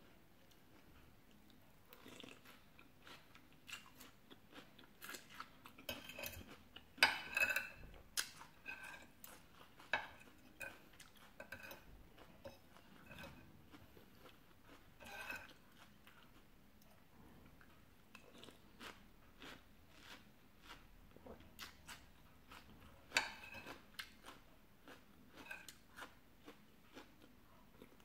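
Close-up eating sounds: chewing and crunching of khanom jeen rice noodles in curry sauce with raw vegetables, made up of many small crackles. There are louder bursts about a quarter of the way in and again near the end.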